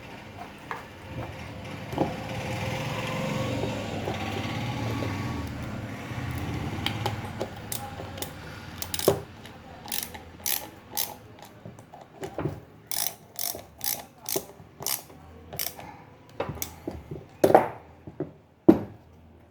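Work on a car starter motor. About two seconds in, a steady mechanical hum starts and lasts a few seconds. Then comes a run of sharp clicks and knocks, roughly two a second, with the loudest near the end.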